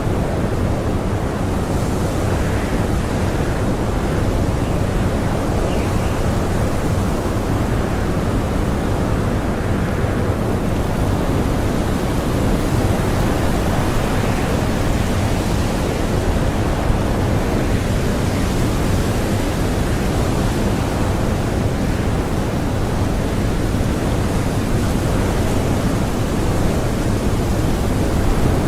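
Blizzard wind blowing hard and steadily, a deep rushing noise with gusts swelling now and then.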